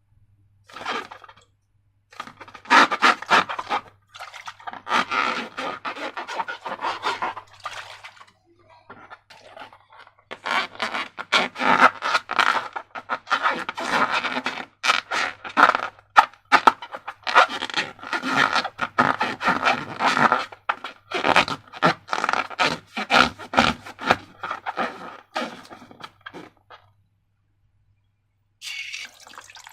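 Slime being worked by hand: runs of wet crackling and clicking with short pauses, then a near-quiet gap near the end.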